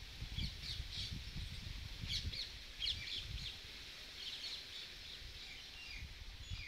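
Birds calling repeatedly: many short, high chirps and calls, several a second, some gliding downward near the end, over a low rumble.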